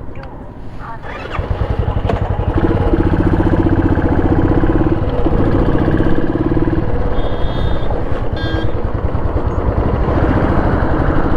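Royal Enfield Classic 350's single-cylinder engine starts up about a second in, then runs with an even, rapid low pulsing. A few short high beeps sound about two-thirds of the way through.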